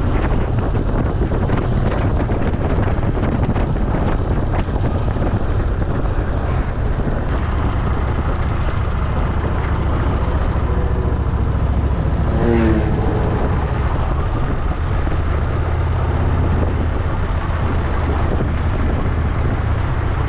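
Motorcycle riding at steady speed: a continuous low engine drone with wind rushing over the microphone. A short pitched sound stands out briefly about twelve seconds in.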